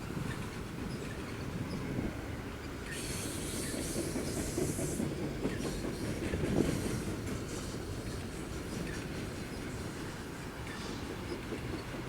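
A train rolling past on the BNSF main line, a steady low rumble with the clicking of wheels over the rails. A high hiss comes in about three seconds in and lasts about two seconds.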